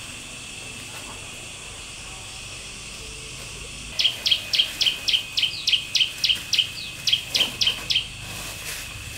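A bird calling a rapid run of about fifteen short, falling notes, roughly four a second, starting about halfway through and lasting some four seconds. A steady high insect drone runs underneath.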